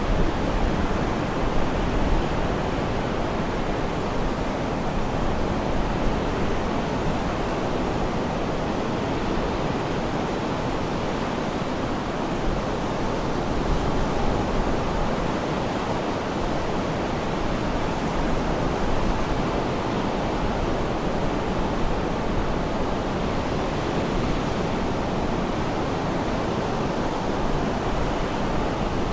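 Sea waves washing on the shore: a steady rush of surf that swells and eases slightly, with no distinct breaks.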